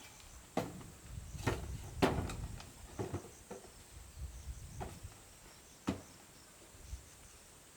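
Irregular sharp knocks and thuds of wood being worked, about eight in all, loudest about two seconds in, over a low rumble that fades after the middle. Crickets chirp faintly throughout.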